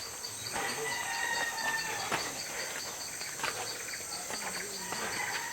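Rainforest insects chirring steadily, one with a rapid high pulsing chirp about five times a second, with a few scattered sharp clicks.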